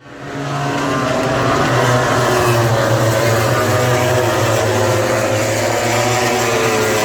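A vehicle engine running steadily with a low drone, fading in over the first half second.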